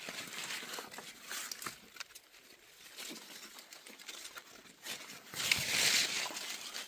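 Rustling and crackling with many scattered small clicks, and a louder, longer rustle about five and a half seconds in.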